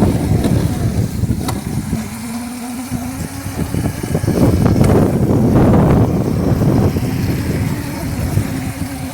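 Razor MX350 electric dirt bike running, with a thin steady motor whine at times under a rushing noise that swells and fades.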